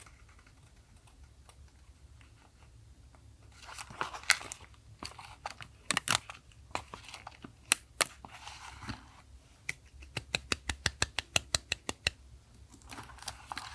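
Paper being handled on a desk: rustling and crinkling, single sharp clicks, and a quick run of even ticks, about seven a second, for a couple of seconds before more rustling near the end.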